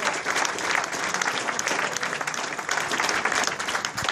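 A crowd applauding: steady, dense clapping from many hands.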